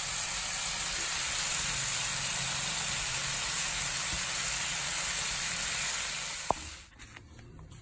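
Chicken and vegetable stir-fry sizzling steadily in a non-stick frying pan, cutting off abruptly near the end.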